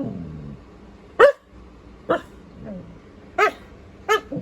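A husky giving a string of about five short calls, each bending in pitch, with the loudest about a second in.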